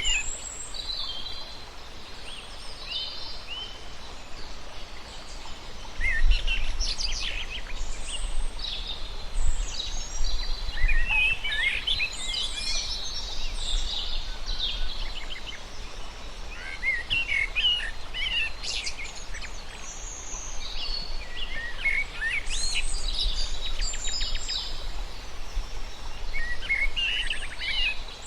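Several birds chirping and singing in overlapping short calls and trills throughout, over a steady low background rumble.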